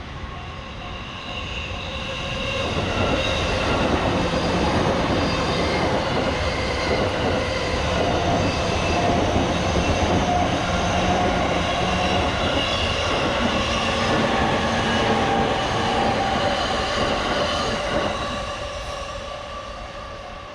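An electric train passes over a level crossing. Its running noise builds over about three seconds, stays loud for some fifteen seconds and fades near the end, while the crossing's warning bell keeps ringing throughout.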